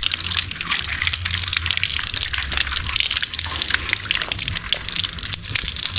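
Water splashing and dripping: a steady hiss scattered with many small drops and splashes.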